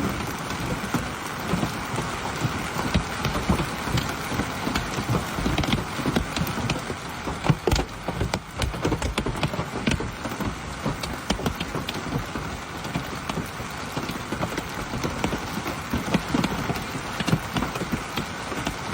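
Hailstorm: hailstones and rain coming down, a dense irregular clatter of hard hits over a steady rushing hiss.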